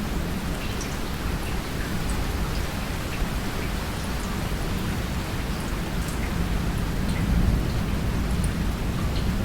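Steady rain with scattered drop ticks over a low rumble.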